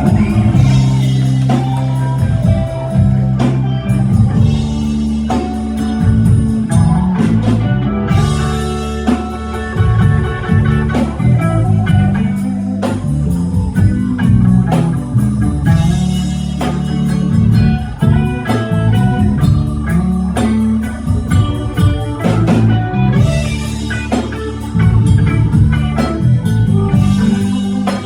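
Live blues band playing an instrumental passage: electric guitar lines over bass and drum kit.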